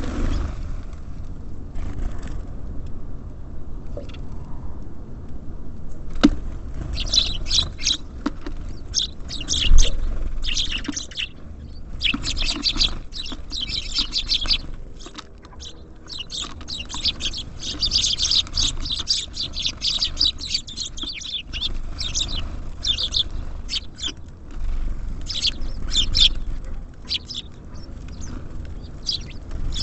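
Small songbirds chirping rapidly and repeatedly at a bird feeder, thin at first and dense from about seven seconds in. Under it runs a steady low rumble, and a few sharp knocks come through, the loudest about ten seconds in.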